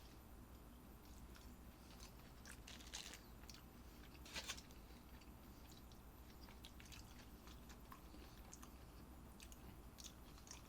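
Faint chewing of raw mackerel sashimi, with soft mouth sounds and scattered small clicks, a little louder about three and four and a half seconds in.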